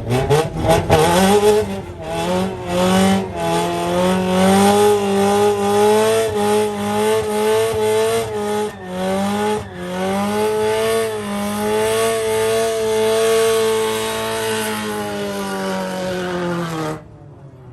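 Car engine held at high revs during a burnout, the tyres spinning. The revs climb quickly at the start, hold high with repeated short dips and recoveries, sag slightly near the end and cut off abruptly.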